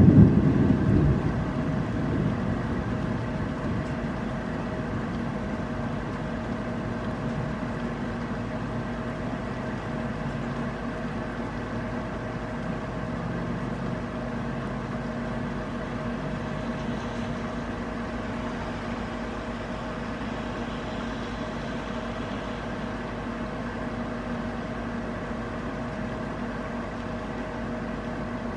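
Steady thunderstorm rain with a faint steady hum under it. A loud low rumble at the very start fades away within about two seconds.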